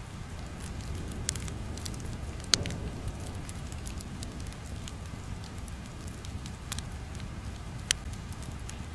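Fire crackling: a steady low rumble with scattered pops and snaps, the sharpest about two and a half seconds in and again near the end.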